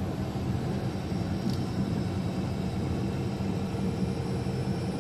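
Steady drone of a truck's engine and road noise, heard inside the cab while driving on the highway.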